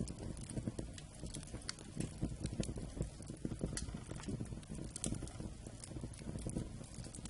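Wood campfire burning: a low, steady rumble of flames with frequent irregular crackles and sharp pops of the burning wood.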